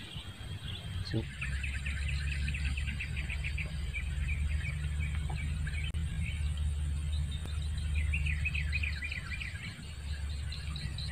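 Marsh ambience: small birds chirping in quick trills, in runs lasting a second or two, over a steady low rumble.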